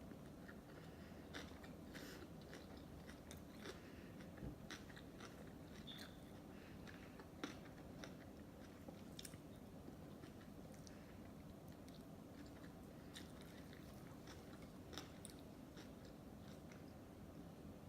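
Close-miked chewing of a mouthful of sushi: soft wet mouth clicks and smacks at an irregular pace, thicker in the first half and sparse near the end.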